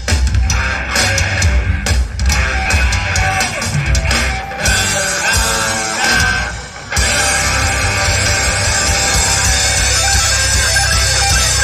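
Live rock band playing loud, with guitar and drums. The music drops back briefly about six to seven seconds in, then carries on more sustained.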